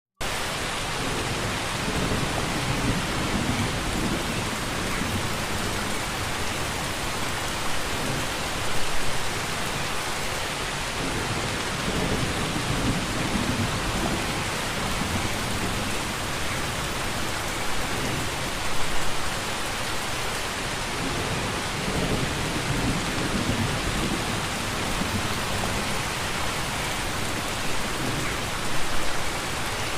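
Steady, dense rainfall hissing evenly. Three brief low rumbles swell up about ten seconds apart.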